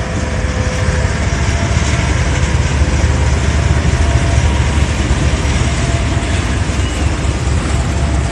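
CC201 diesel-electric locomotive passing close by, followed by a string of fuel tank wagons rolling over the rails: a loud, steady, deep rumble.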